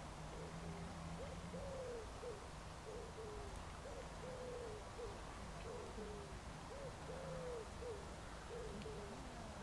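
A bird cooing: a steady run of short, low hooting notes, each rising and falling in pitch, with brief gaps between phrases. A faint steady low hum lies beneath it for the first two seconds and again in the middle.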